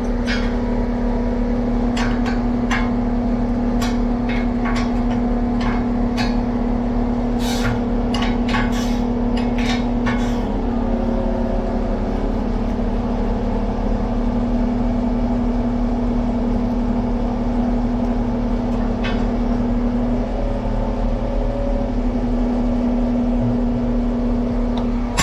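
An engine running steadily at idle, with a string of sharp clicks and knocks over the first ten seconds or so and one more near the end, from hand tools and parts being handled while setting up to swap a tire valve stem.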